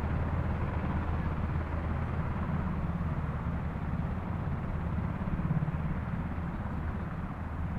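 Sikorsky UH-60 Black Hawk helicopter running steadily, its rotors and twin turbine engines giving a constant low hum over a broad rushing noise.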